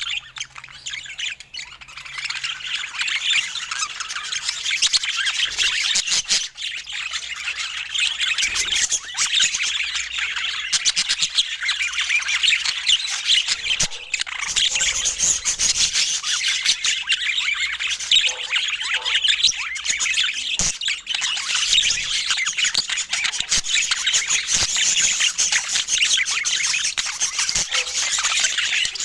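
Budgerigars chattering and chirping continuously, many calls overlapping, with scattered squawks and a few sharp clicks.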